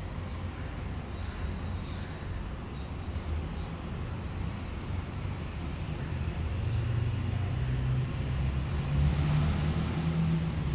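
Low engine rumble of a motor vehicle nearby, steady at first and growing louder in the second half as the vehicle draws closer.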